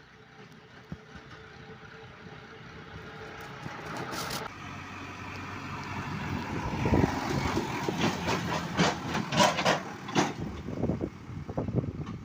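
A tractor pulling a loaded trolley approaches and grows steadily louder, its engine filling the low end, with sharp knocks and rattles in the second half as it comes close.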